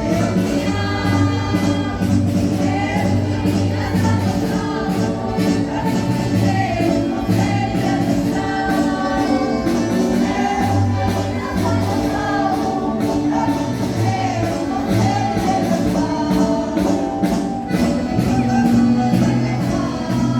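A Portuguese marcha popular sung in chorus by a group of voices over band accompaniment, with a steady marching beat.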